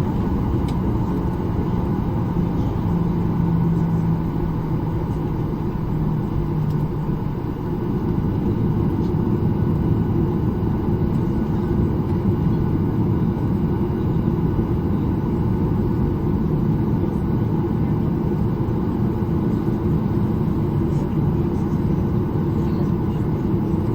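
Steady rumble of a Ryanair Boeing 737 airliner's jet engines heard inside the cabin as the plane departs. A low hum sits under it for the first seven seconds or so and then fades.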